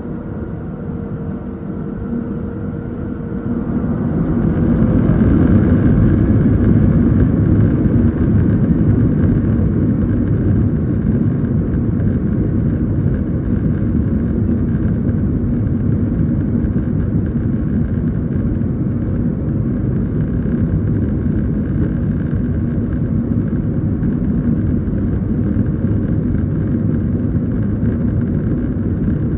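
The Boeing 737-700's CFM56-7B turbofan engines at takeoff thrust, heard from inside the cabin. The roar swells over the first few seconds, then holds steady and loud.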